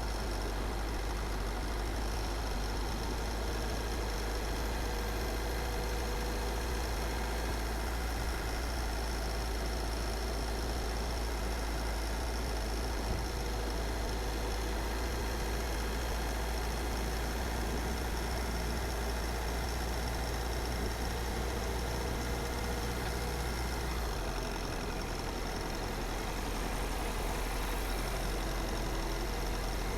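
A car driving at steady speed: continuous engine and tyre road noise with a deep rumble, which eases a little about three-quarters of the way through.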